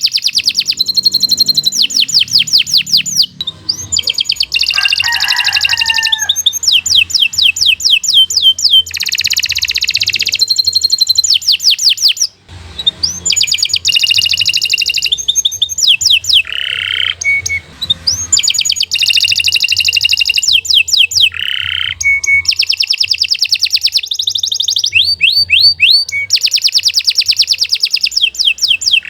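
Domestic canary singing a long, continuous song: phrase after phrase of rapid trills of fast repeated notes, many of them sweeping downward, with a brief break about twelve seconds in. A faint low hum runs underneath.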